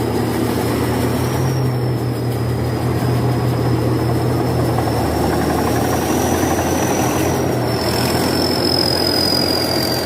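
Tractor diesel engine running steadily, a continuous low hum, with a thin high whine that drifts slightly in pitch.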